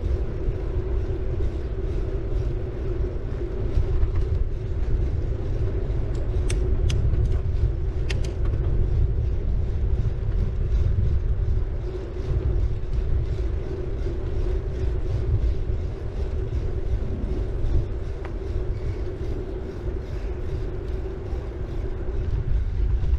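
City bike being ridden, recorded on a GoPro MAX: steady low tyre and wind rumble with a constant hum, and a few sharp clicks about six to eight seconds in.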